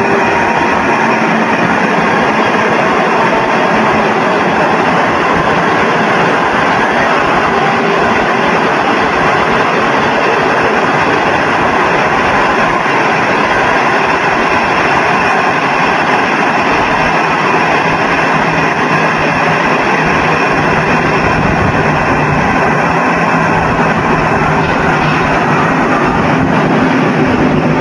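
Trains running along the line, heard as a loud, steady rumbling rush that never swells or fades. The trains are an SS9G electric locomotive hauling coaches and a white high-speed trainset.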